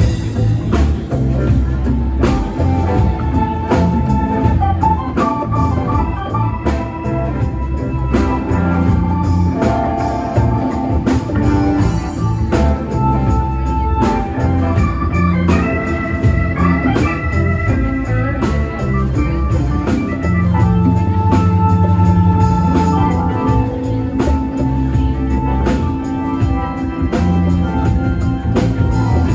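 Live band playing an instrumental passage: held organ chords over a steady drum beat.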